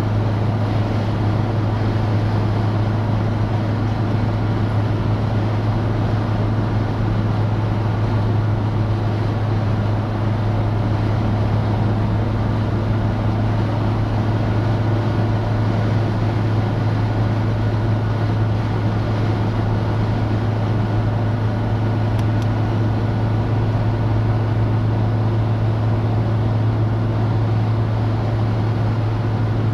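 Citroën DS four-cylinder engine running steadily at an even cruise with a constant low hum, under a continuous haze of road and wind noise.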